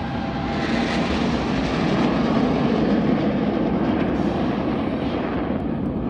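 Jet aircraft flying low past the crowd, its engine noise swelling over the first two seconds and then holding loud.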